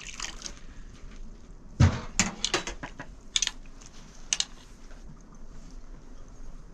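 A heavy knock about two seconds in, then a few scattered light clinks and clatters of objects being handled, like pots or dishes being moved.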